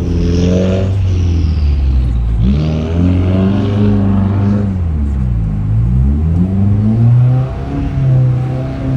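Car engine revving up and falling back several times in quick swings of pitch as the car is drifted with traction control off, with a rushing hiss near the start and again about three seconds in.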